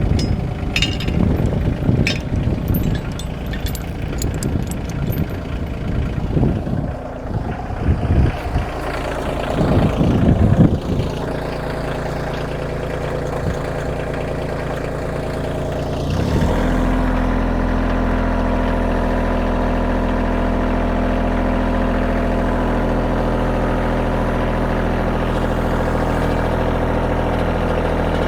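Kioti compact tractor's diesel engine running while it pulls the driveway drag out, with an uneven, clattering sound over the first ten seconds or so. About sixteen seconds in it changes abruptly to a steady, even engine note.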